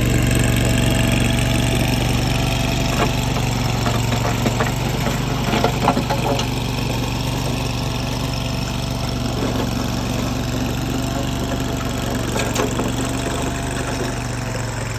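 Mini skid steer's engine running steadily, with a few sharp knocks scattered through the work.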